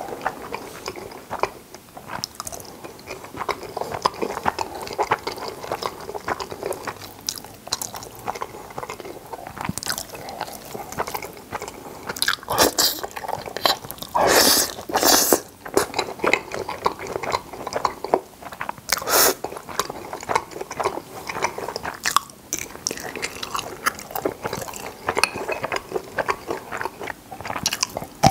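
Close-miked eating of creamy carbonara spaghetti with bacon: wet chewing, smacking and slurping mouth sounds with many small clicks, loudest around the middle.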